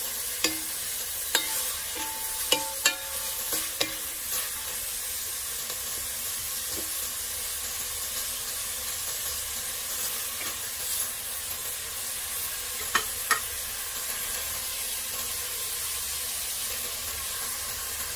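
Food sautéing in hot oil in a cooking pot, with a steady sizzle. A metal utensil stirs and knocks against the pot, giving sharp clinks with a short ring, several in the first few seconds and two more a little past the middle.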